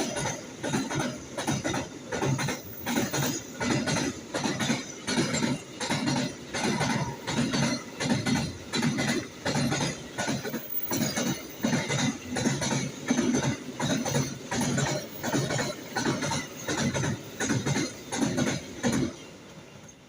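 A passing train's wheels clacking over the rail joints in a steady rhythm of about one and a half beats a second, which cuts off suddenly near the end.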